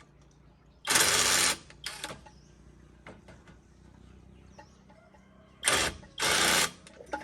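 Hand tools at work on a tractor: three short bursts of loud mechanical rattling, ratchet-like, each about half a second long, with faint clinks and knocks between them.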